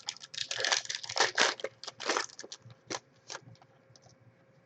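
A quick run of short crackling clicks and rustles, dense for about two seconds, then thinning to a few separate ticks and stopping about three and a half seconds in.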